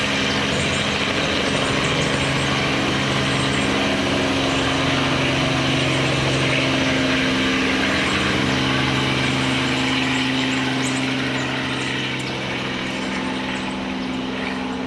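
Helicopter engine and rotor running steadily, a loud drone with a hum of several pitches over a broad rushing noise; it eases slightly about twelve seconds in.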